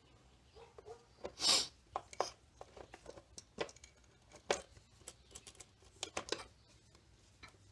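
Hands working a throttle cable onto a scooter carburetor: irregular small metallic clicks and taps, with a brief louder scrape about one and a half seconds in.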